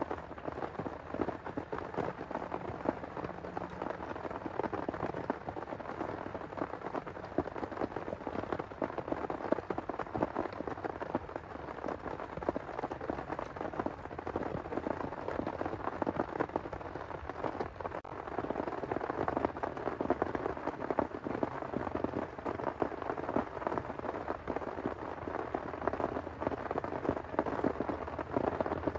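Heavy rain falling steadily, with a dense crackle of individual drops striking a surface close by.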